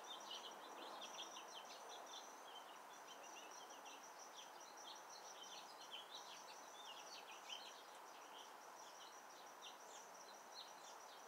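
Faint outdoor bird chirping: many short, quick chirps keep coming, over a thin, steady high trill and a low hiss of background noise.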